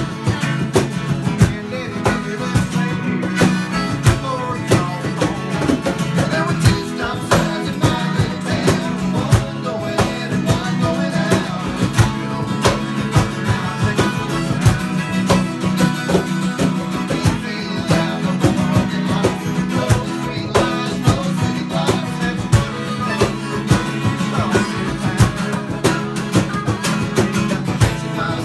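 Country band playing live, with acoustic guitar strumming to a steady beat.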